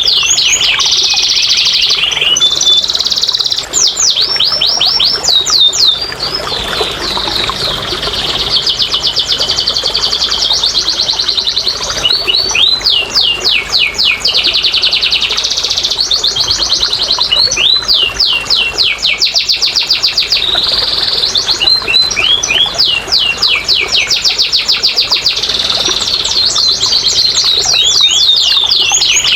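Domestic canary singing one long, unbroken high-pitched song of rapid trills and rolls. The trill type changes every second or two, between fast runs of short sweeping notes and buzzier rolls.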